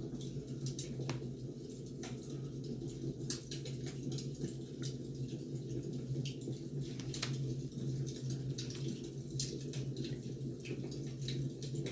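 Wood fire burning: irregular sharp crackles and pops from the firewood over a steady low rumble.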